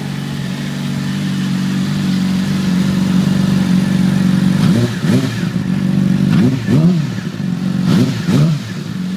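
Yamaha R6 inline-four sport bike with a Two Brothers aftermarket exhaust idling steadily, then revved in a quick series of short throttle blips, about six or seven, through the second half.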